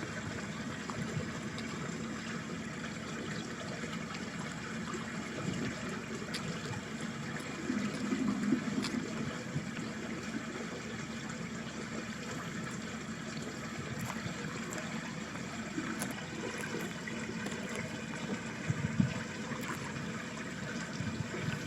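Water running steadily in a small village ditch, an even rushing trickle, with a few brief low surges, around 8 and 19 seconds in.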